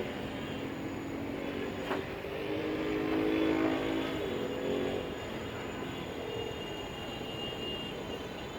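Buggy's CFMOTO engine being started: a mechanical hum that rises in pitch and grows louder about two seconds in, then eases back after about five seconds, with a single click near two seconds.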